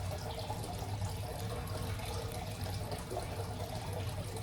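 Steady background noise: a low hum with an even hiss, no distinct events.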